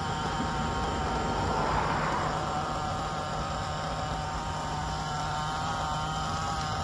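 A car engine running steadily at a high pitch while being tuned, with its fuel mixture still set rich early in the tuning. It swells briefly louder about two seconds in, then settles back to an even tone.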